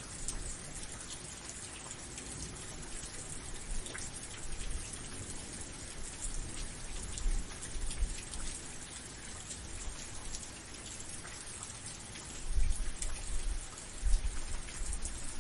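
Steady rain with scattered drop ticks. A low rumble of thunder comes in over the last few seconds.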